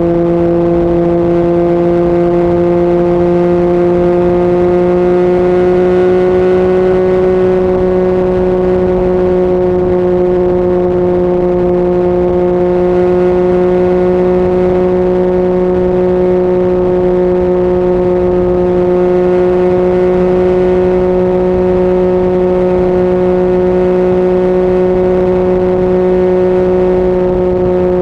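Yamaha MT-09 inline-three engine with an Akrapovic exhaust, running at steady cruising revs. Its pitch climbs slightly over the first several seconds, then holds steady.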